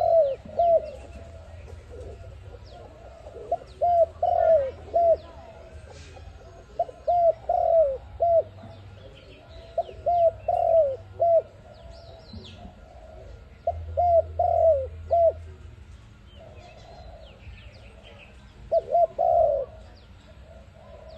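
A dove cooing: short phrases of three or four quick coos, repeated every three to four seconds. Faint high chirps from small birds sit behind it.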